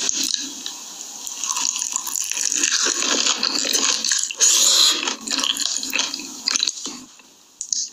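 Close-miked wet eating sounds: irregular moist crackles, clicks and smacks.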